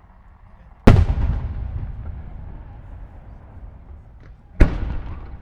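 Two aerial fireworks shells bursting about four seconds apart, each a sharp boom followed by a long rumbling echo that dies away over a couple of seconds.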